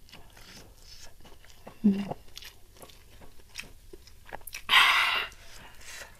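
Close-miked chewing of rice and fried tempeh, with small wet mouth clicks throughout. A short hummed "mm" about two seconds in, and a loud breathy exhale about five seconds in, blowing out against the chilli heat.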